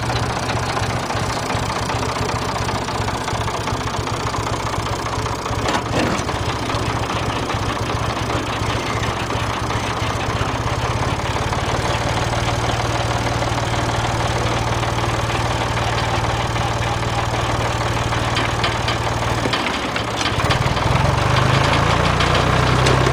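Engine powering an old belt-driven sawmill, running steadily, then speeding up about twenty seconds in.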